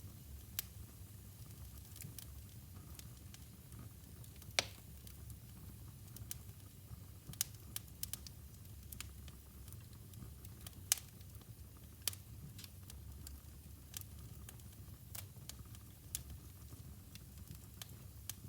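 Wood fire burning in a fireplace, crackling with irregular sharp pops and snaps over a low steady rumble; the loudest pops come about four and eleven seconds in.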